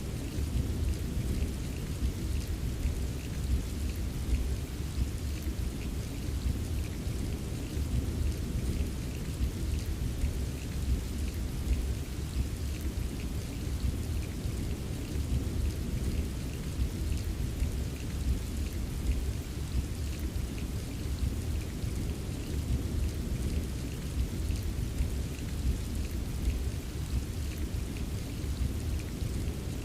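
Recorded rain ambience: steady rain with a continuous deep low rumble and faint scattered drop ticks.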